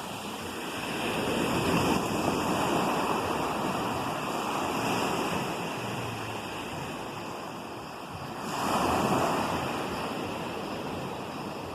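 Ocean waves breaking on a shore, a steady wash of surf that swells and falls back, with a bigger wave breaking about eight and a half seconds in. Some wind noise on the microphone.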